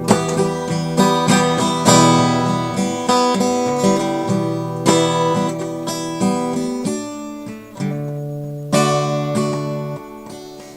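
Acoustic guitar strummed in an instrumental passage, chords struck about twice a second; the strumming thins out later, and a last chord about 9 s in rings and fades.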